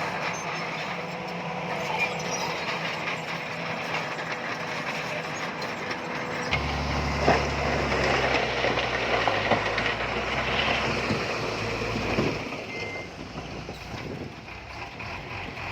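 Heavy diesel construction machinery running steadily. About six and a half seconds in a deeper, louder engine comes in, with scattered knocks and clanks, then drops away about twelve seconds in.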